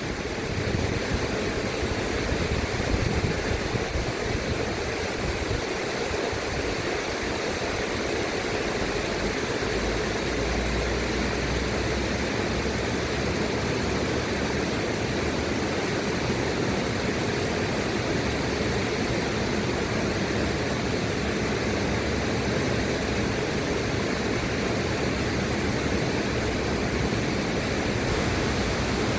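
River water rushing steadily, an even wash of noise.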